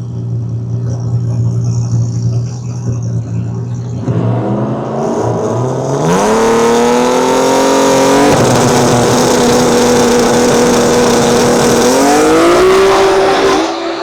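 Drag race car engine idling, then revving up about four seconds in and held at high, steady revs for several seconds before climbing once more; the sound cuts off abruptly near the end.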